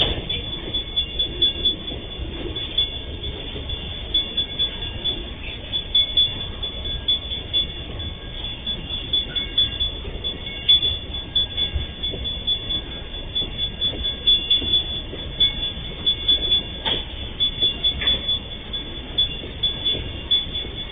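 Freight train wagons rolling past over a level crossing. The wheels clack on the rail joints in a rapid, uneven rhythm over a continuous rumble, with a few louder clanks near the end and a steady high-pitched tone running above it.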